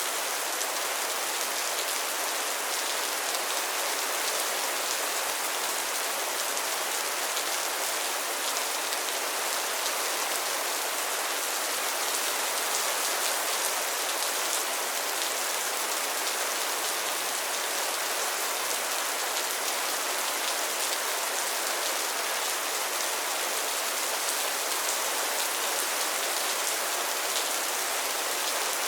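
Steady rain falling on a pond and its lily pads: a continuous high, even hiss of many small drops pattering, with no change in intensity.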